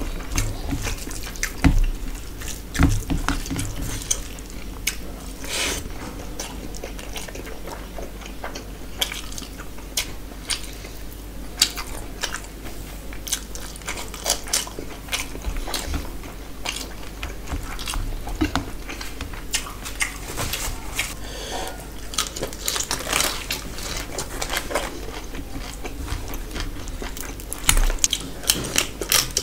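Wet chewing and lip-smacking of a person eating rice and curry by hand, with soft squelching as the fingers mix rice into the gravy. Many short, irregular smacks and clicks.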